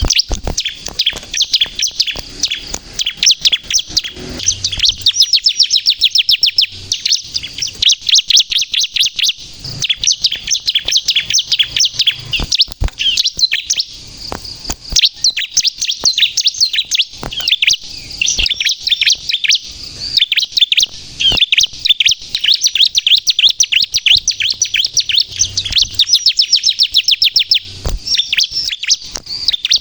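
Ciblek kristal, a bar-winged prinia, singing in a long, near-continuous run of fast, high chattering notes with only brief pauses. This is the 'gacor' song that bird-keepers play to lure wild birds and to provoke captive ones into singing.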